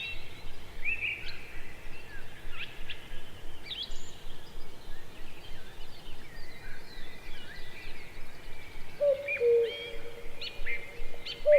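Birds chirping and calling throughout, with a low two-note hooting call about nine seconds in that starts again near the end.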